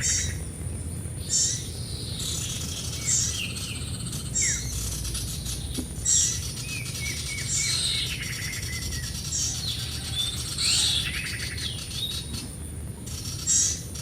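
Small birds chirping, short high calls every second or two, with a quick run of falling notes about seven seconds in, over a low steady rumble.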